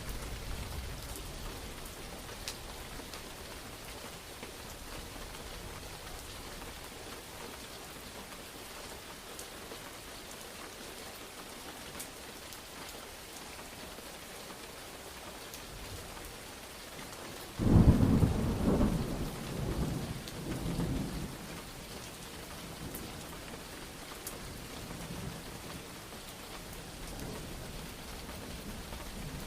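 Steady rain falling throughout. About two-thirds of the way through comes a sudden loud thunderclap, which rolls on in a few rumbling pulses for about three seconds before the rain alone remains.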